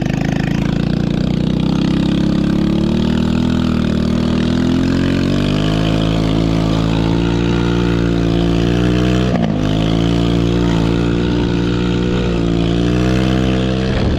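A small 110cc four-stroke single-cylinder ATV engine held on the throttle at high revs. Its pitch climbs over the first few seconds, then wavers as the quad slides, dips briefly about nine seconds in, and falls away near the end.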